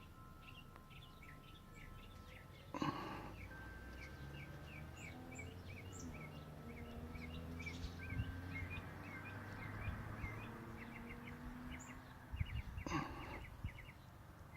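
Small birds chirping in quick, repeated short chirps, with a faint low hum underneath. Two short louder bursts break in, about three seconds in and near the end.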